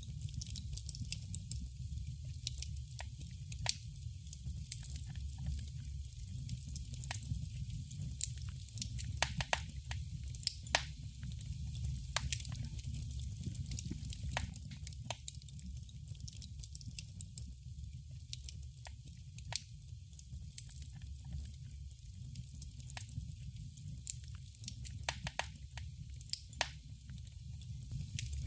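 Wood fire crackling in a fireplace: irregular sharp pops and snaps, several loud ones scattered through, over a steady low rumble.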